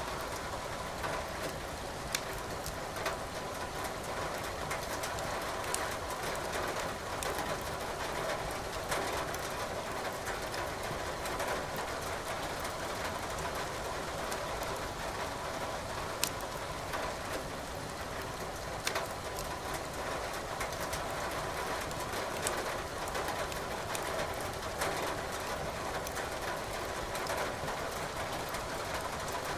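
Logs crackling in a fireplace, with scattered sharp pops every few seconds, over the steady hiss of rain.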